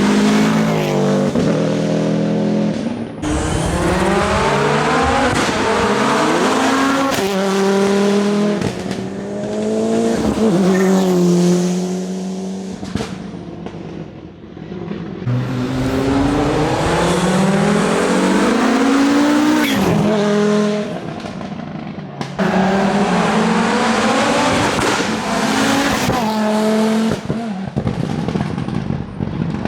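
Rally cars driven at full attack: engines rev high, drop back through gear changes and lifts, then rev up again, over and over. The sound changes abruptly a few times as one car gives way to the next.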